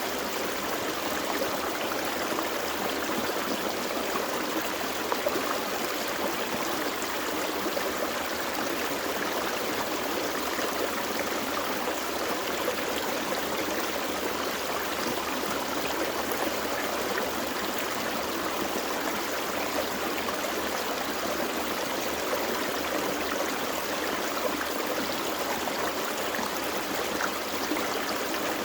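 A gentle forest stream running over rocks, a steady rushing and babbling.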